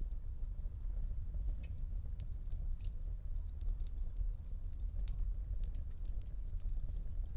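Wood fire crackling in a fireplace: many small, irregular pops and snaps over a steady low rumble of burning.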